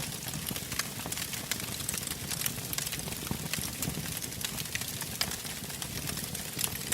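Wood fire in a fireplace crackling, with many small, irregular pops and snaps over the low, steady rumble of the flames.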